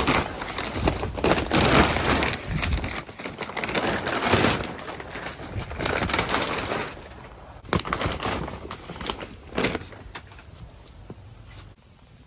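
Gusts of wind, with rustling and crackling noise coming in waves of a second or two and dying down near the end.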